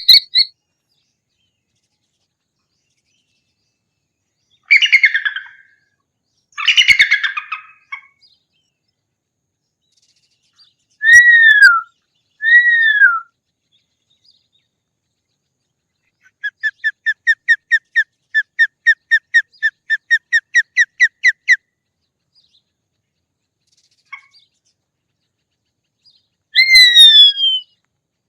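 Hawk calls with silent gaps between them. There are two harsh screeches, then two short falling cries, then a rapid even run of about twenty short sharp notes at some four a second, and one last falling cry near the end.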